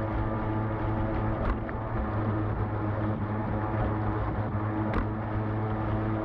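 Radio-controlled boat's brushed electric motor running at a steady pitch, with water noise and two brief knocks.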